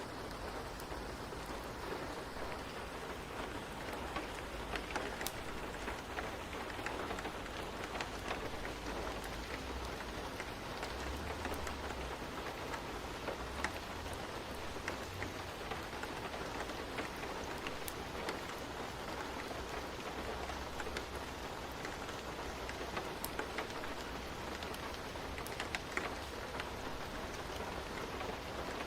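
Steady rain ambience: an even rush of rain with scattered sharp ticks and a low rumble that comes and goes.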